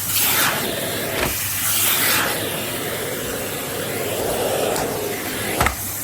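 Philips Series 3000 Performer Compact 900-W bagged vacuum cleaner running at high power with a steady hiss, with a couple of short knocks from the nozzle about a second in and near the end.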